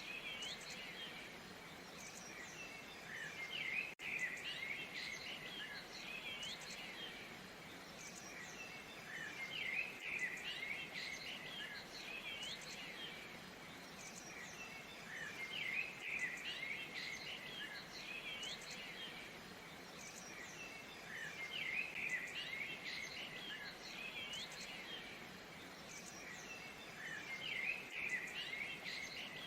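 A steady rush of falling water with songbirds chirping and whistling over it. The birds come in bursts that repeat about every six seconds.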